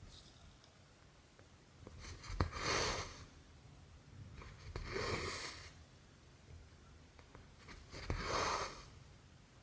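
Needle and cotton thread drawn through cross-stitch fabric, three times: each pull is a brief swish, and two of them start with a sharp tick as the needle pierces the cloth.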